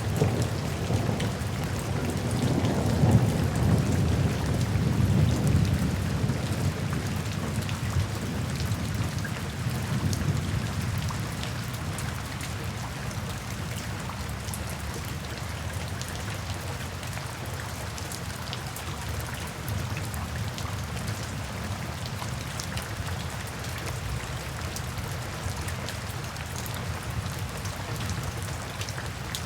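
Steady rain falling, with a low roll of thunder that swells a few seconds in and fades away over the first ten seconds or so.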